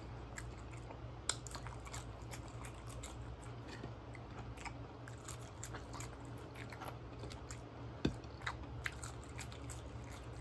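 Close-up mouth sounds of a person chewing seasoned sweet potato fries and a grilled cheese spam sandwich: wet chewing with many small soft crunches, two sharper ones about a second in and about eight seconds in.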